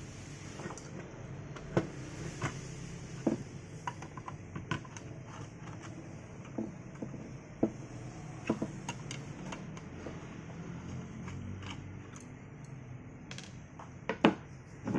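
Irregular light clicks and knocks, as of small objects being handled on a hard surface, over a steady low hum; two louder knocks come near the end.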